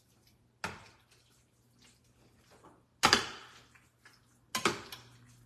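Three short, sharp clattering knocks of a cooking utensil and pot, each fading quickly; the second, about three seconds in, is the loudest.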